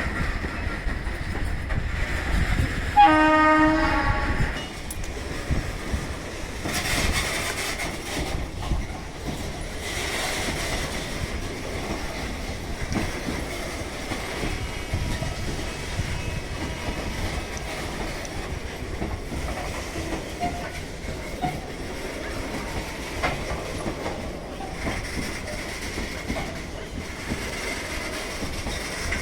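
Goods train of bottom-discharge hopper wagons rolling past, wheels clattering steadily over the rail joints. A short train horn blast sounds about three seconds in.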